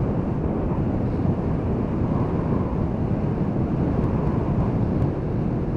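Heavy wind noise buffeting the microphone over the running engine of a 2013 Honda CB500X, a dense steady rumble that starts abruptly at the very beginning.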